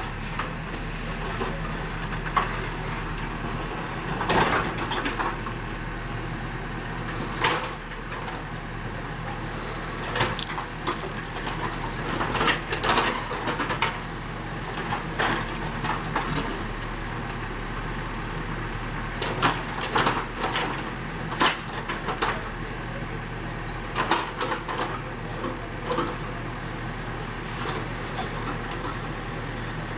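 Diesel engine of an ACE AX124 backhoe loader running steadily while it digs, with irregular knocks and clanks every few seconds, loudest in clusters around the middle.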